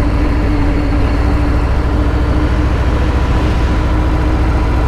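Harley-Davidson Fat Bob's V-twin engine running steadily at cruising speed, with a dense low rumble and road and wind noise. A steady hum fades out a little past halfway.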